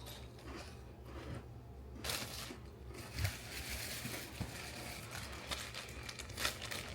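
Plastic packaging crinkling and rustling as clothing is handled and unwrapped, starting about two seconds in and going on in irregular crackles.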